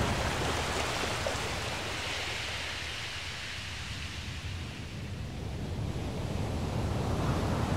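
Recorded nature ambience of rushing water, a steady hiss that dips about four seconds in and then builds again.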